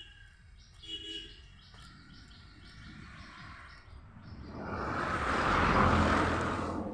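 Small bird calling: two short calls, then a quick run of repeated high chirps. Near the end a loud rush of noise swells and fades, drowning it out.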